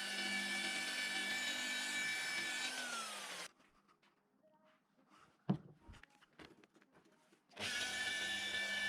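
Electric power tool running steadily with a whine, spinning down and stopping about three seconds in. A few light clicks and one sharp knock follow, then the tool is running again near the end.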